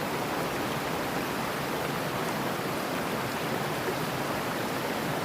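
Steady rushing of a mountain stream, an even, unbroken water noise.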